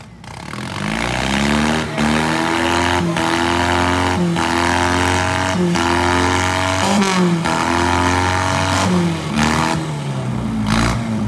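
Four-cylinder demolition derby car engines revving hard, the pitch holding and then dropping and climbing again every second or so.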